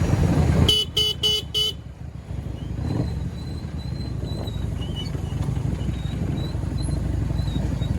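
A vehicle horn sounds four quick beeps in the first two seconds, over the steady low rumble of a motorcycle riding on a highway.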